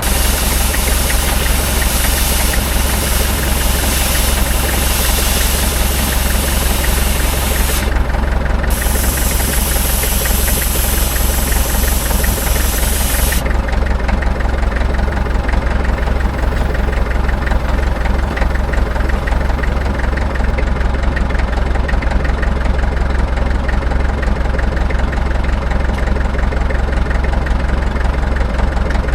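An engine running steadily at idle, with a loud hiss over it that drops out briefly about eight seconds in and stops about thirteen seconds in.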